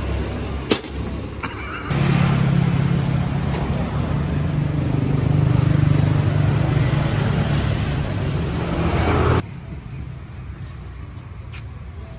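Small motorcycle engine, the Suzuki Shogun 110R's, running steadily for about seven seconds and cutting off abruptly. Fainter background noise with a few sharp clicks comes before and after it.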